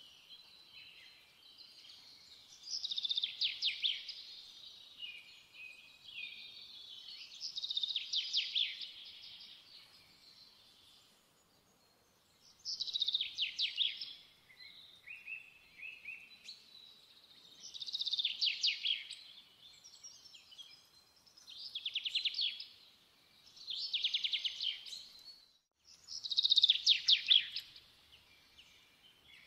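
Songbird singing: about seven phrases of rapid, trilled high notes, each about two seconds long, with short pauses between them.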